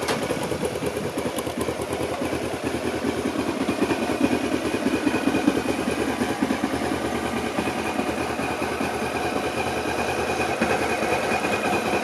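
2005 Honda CBF500's parallel-twin engine running steadily, with no revving.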